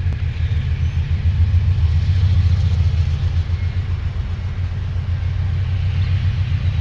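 Two GE diesel-electric freight locomotives running, with a steady low rumble.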